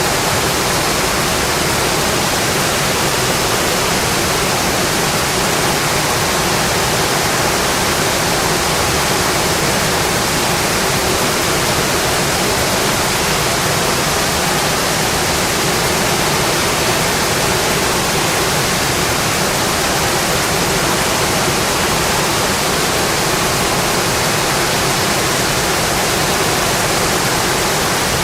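Steady, heavy rain on a metal roof: a dense, even hiss of drops.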